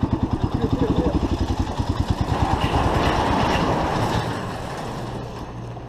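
Motorcycle engine running with an even beat of about nine exhaust pulses a second. About two and a half seconds in, the beat gives way to a rushing noise and then a steady low hum.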